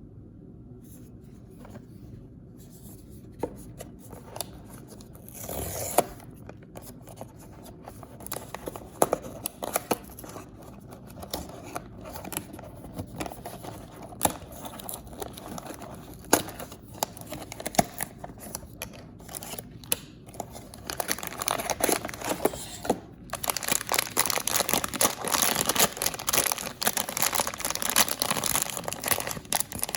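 Paper and plastic toy packaging being handled and opened by hand: scattered crinkles and small clicks, a brief louder tear about six seconds in, then dense, continuous crinkling and rustling over the last third.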